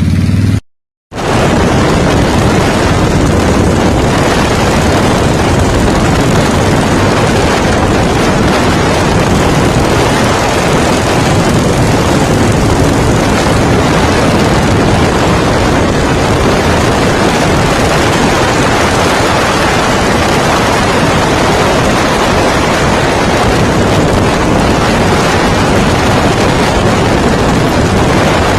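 A bobber motorcycle's idle is cut off moments in, followed by a brief silence. Then a loud, steady rush of wind on the microphone fills the rest and buries any other sound.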